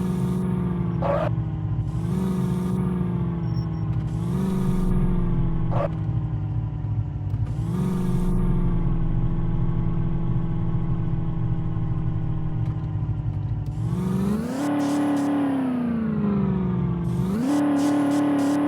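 Vehicle engine running steadily with a few short hissy bursts, then revving up and back down about 14 seconds in and revving up again near the end.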